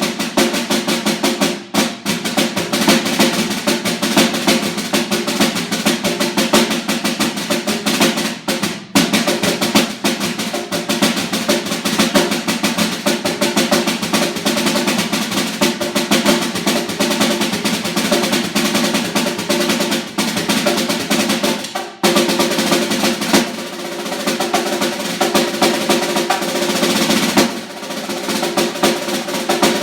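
Snare drum played with sticks in a fast solo: dense, rapid strokes and rolls, broken by a few very short pauses.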